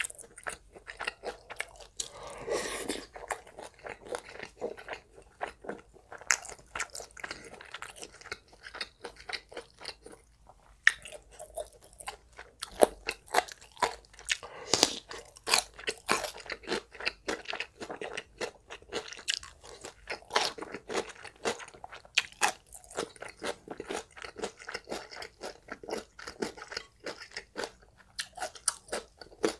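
Close-miked chewing of stir-fried spicy pork, rice and Korean side dishes, with a dense run of crunches and bites all through. The loudest crunches come about halfway in.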